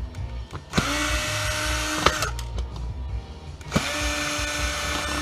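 Cordless power drill running in two bursts of about a second and a half each, spinning up quickly to a steady whine, as when screws are driven out of a plastic case.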